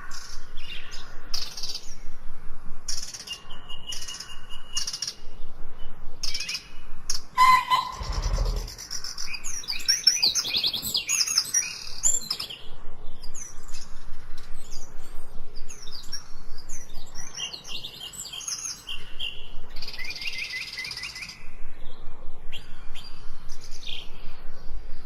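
Several songbirds chirping and trilling in quick, overlapping bursts of short high notes, with a brief low thud about eight seconds in.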